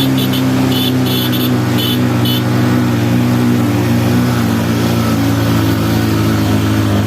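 A motor running at a steady speed, giving a constant low hum. Short high chirps come several times in the first couple of seconds.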